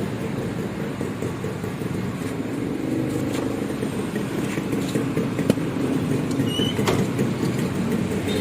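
A motor vehicle engine running steadily with a low rumble, with a couple of sharp clicks in the second half.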